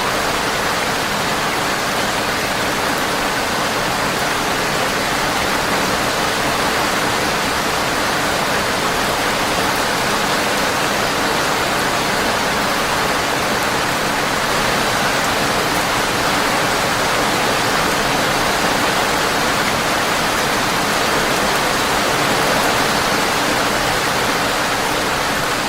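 Steady rain, an even hiss that never lets up.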